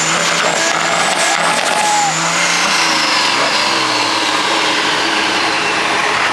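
A vehicle's engine running hard, with loud exhaust noise and a high whine that slowly falls in pitch over several seconds.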